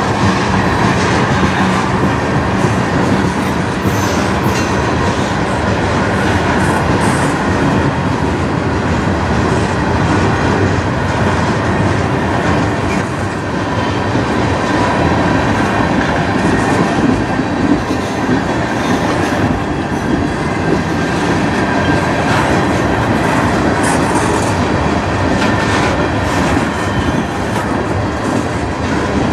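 Freight cars of a CN manifest train rolling past at close range: a loud, steady rumble of steel wheels on the rails.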